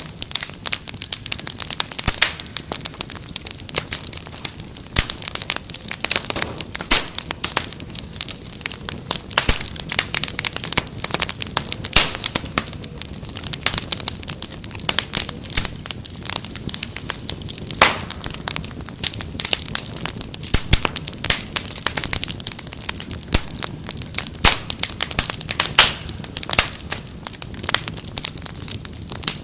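Wood fire crackling in a fireplace: a steady low hiss with frequent irregular sharp pops and snaps.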